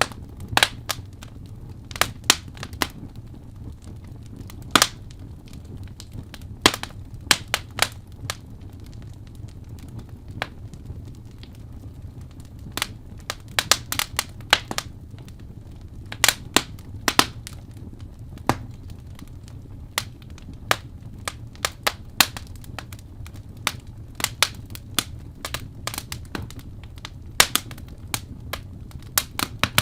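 Wood fire in a fireplace crackling, with sharp pops at irregular intervals over a steady low rumble of the flames.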